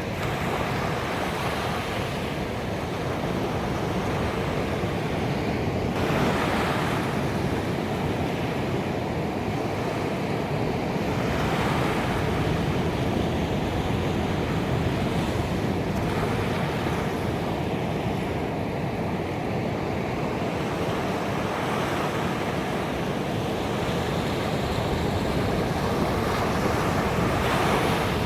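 Ocean waves breaking on a beach, a steady wash of surf that swells every few seconds as each wave comes in.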